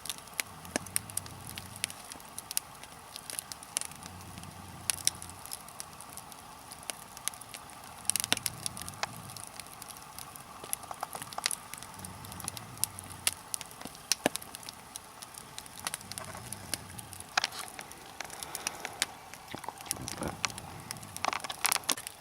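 Spruce-log nodya fire burning with steady irregular crackling and sharp pops, the pops from resin pockets in the spruce bursting in the heat.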